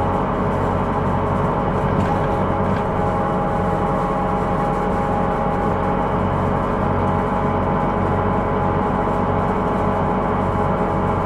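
Hino Rainbow II non-step bus running at a steady pace, heard inside the cabin: a low engine drone under a steady, multi-tone ringing whine, the abnormal noise (異音) this bus is known for.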